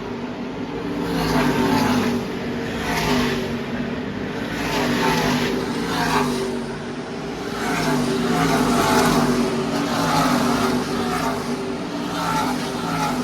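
NASCAR Camping World Truck Series race trucks passing at speed in a pack, their V8 engines swelling and fading one after another as the pitch glides.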